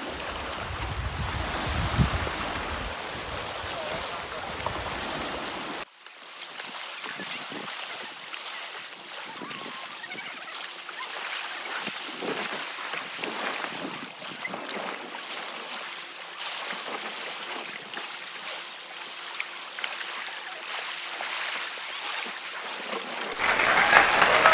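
Outdoor wind and lake-water noise: wind rumbling on the microphone for the first few seconds, then after a sudden cut a fainter hiss of water with scattered small splashes or drips. Near the end a much louder steady hiss begins.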